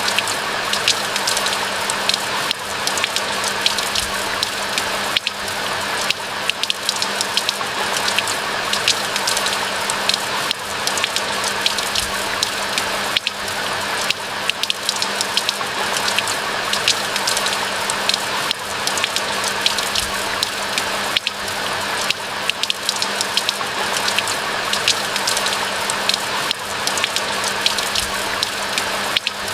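Steady rain falling in a pine forest, an even hiss dotted with many close drops ticking.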